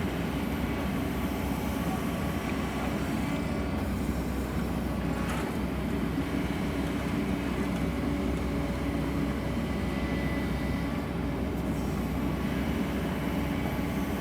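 Sany excavator's diesel engine and hydraulics running steadily while digging, with a faint steady whine above the engine's low drone.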